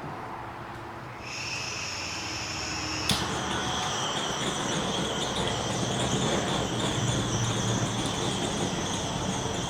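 Handheld butane torch blowing a steady hissing flame over wet acrylic paint. About three seconds in there is a sharp click, and the hiss turns louder and fuller with higher whining tones.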